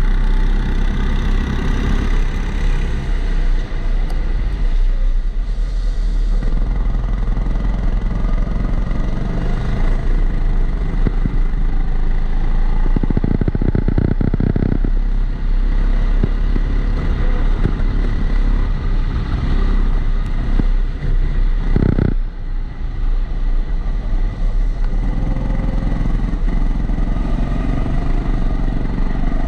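Kombikart Eco rental kart engine heard from on board, its pitch rising and falling as the driver works the throttle through corners, with a brief drop in level a little past the two-thirds mark. A steady high tone and rattle run under it, the regular extra noise that the uploader puts down to the camera sitting in its waterproof housing.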